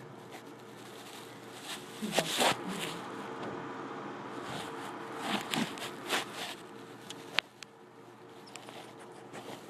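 Dogs pawing and scratching at a closed door, with scattered scrapes and rustles and one sharp click about seven seconds in.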